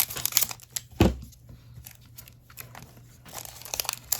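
A foil trading-card booster pack being torn open and crinkled, in irregular crackling rustles, with one sharp knock about a second in.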